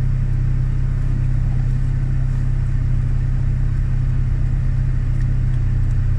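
Steady low hum of a car's idling engine, heard from inside the cabin.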